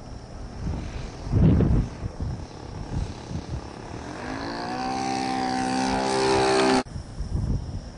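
Model airplane engine and propeller running, rising a little in pitch and growing louder from about halfway, then cutting off abruptly. Before that, gusts of wind buffet the microphone.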